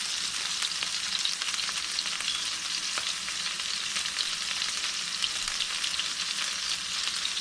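Ahi steaks topped with basil pesto sizzling in the pan after the heat has been cut, as the oil from the pesto runs down under the fish. A steady, crackling hiss.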